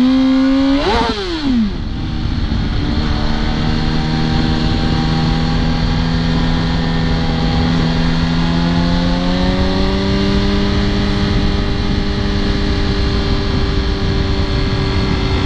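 Motorcycle engine revving up hard, with a gear change about a second in. It then runs at a steady cruising pitch that rises a little around ten seconds in, over wind rush.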